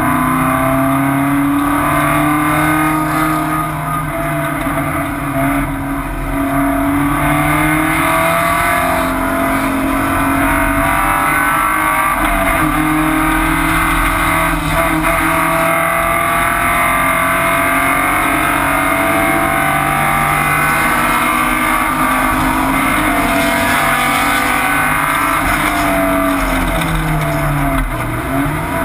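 Porsche 944 race car's inline-four engine under racing load, loud inside the stripped, caged cabin, its pitch rising and falling as it accelerates and slows through the laps.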